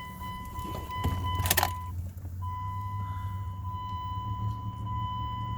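Steady high electronic warning tone from the 2001 Dodge Ram's dash, with a short break about two seconds in, over a low rumble. A sharp click comes about a second and a half in.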